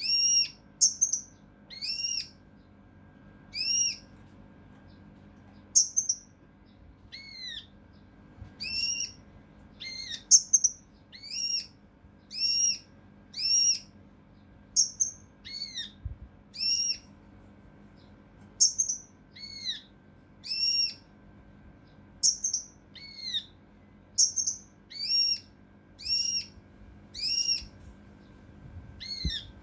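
A kinoi (cucak rante mas) songbird giving short, harsh, arching whistled call notes in quick, close bursts, repeated about once a second. It is the agitated 'tembakan' (shot) call prized for tutoring contest birds.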